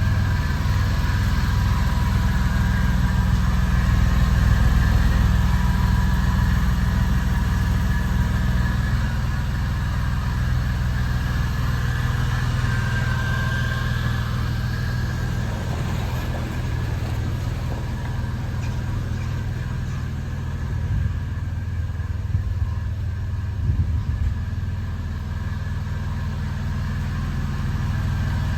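1999 Porsche 911 Carrera's water-cooled 3.4-litre flat-six idling steadily, still warming up after a cold start.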